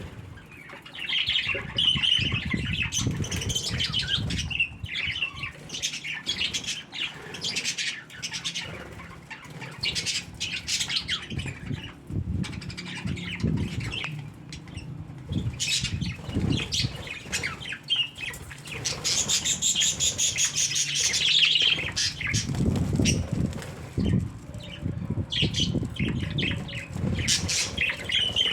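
Budgerigars chattering in quick high chirps, with bouts of wing flapping.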